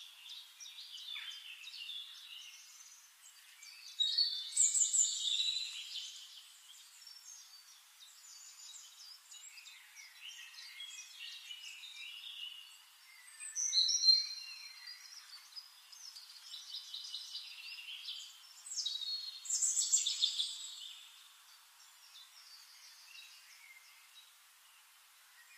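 Birds chirping and singing in short, high calls, louder in spells about 4, 14 and 20 seconds in, over a faint hiss.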